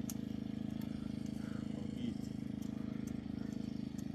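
An engine running steadily with an even, rapid pulse, and a few faint light clicks over it.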